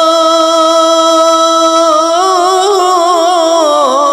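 A singer holding a long note at the end of a line of a Bengali gojol, a devotional Islamic song, likely unaccompanied. The note stays steady for about two seconds, then wavers in small ornamented turns and dips in pitch near the end.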